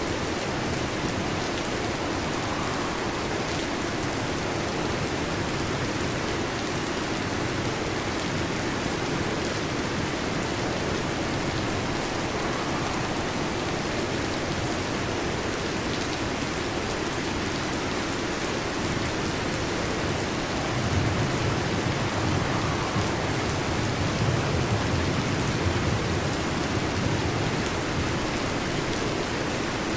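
Heavy rain drumming steadily on a metal roof. About two-thirds of the way in, a low rumble of thunder swells for several seconds.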